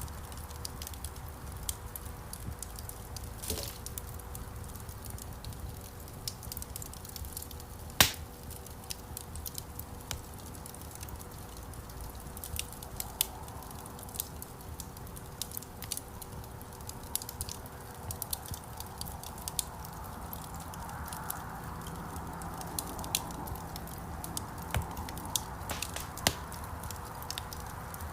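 Wood fire crackling in a fireplace: scattered small pops and snaps over a low, steady rumble of flames, with one loud sharp snap about eight seconds in.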